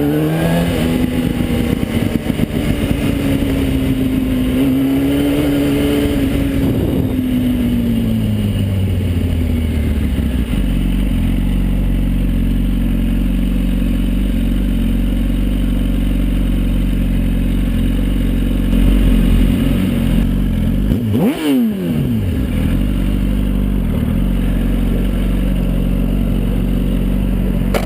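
Car engine under way, accelerating at first and then slowing over the first ten seconds or so. After that it runs steadily with a deep rumble, and its pitch briefly dips and rises again a little past three quarters of the way through.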